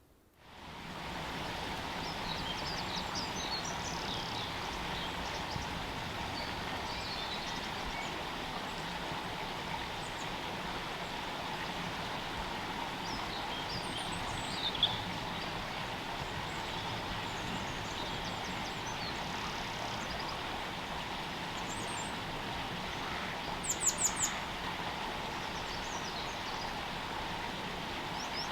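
Small birds calling and chirping here and there over a steady, even background hiss, with a short run of sharper, high-pitched calls about 24 seconds in.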